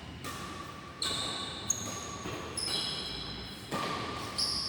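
Badminton play in a large hall: sharp racket-on-shuttlecock hits about once a second, mixed with high squeaks and ringing, over the hum of the hall.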